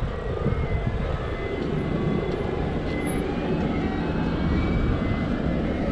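Steady rush of wind on the microphone mixed with road and traffic noise while riding an e-bike through city streets. A faint steady high whine runs underneath.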